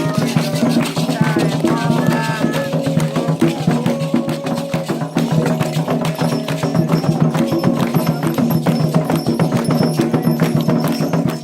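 Candomblé ritual music: dense, fast hand-drum and struck percussion with voices singing.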